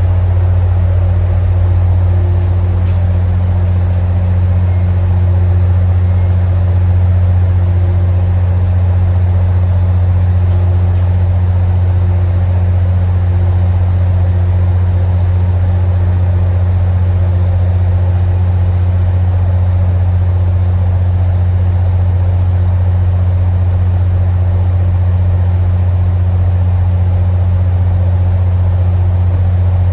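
Diesel commuter-rail locomotive idling at a station stop, a loud, steady low engine hum that does not change, with a few faint ticks.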